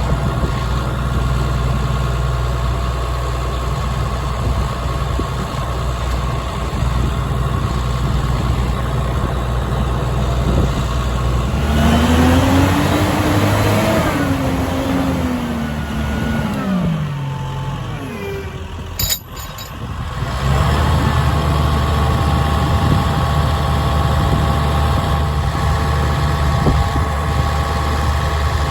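2006 Massey Ferguson 6465 tractor's diesel engine idling steadily, then revved about twelve seconds in, its pitch rising and falling back over a few seconds. A sharp click sounds near nineteen seconds, and the engine settles back to a steady idle.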